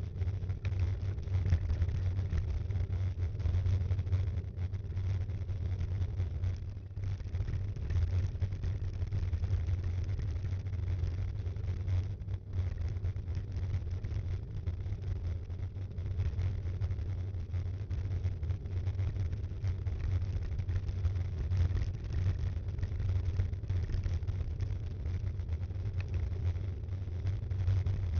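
Steady low rumble of a mountain bike riding along, heard through a handlebar- or frame-mounted action camera: wind on the microphone mixed with tyre and frame vibration.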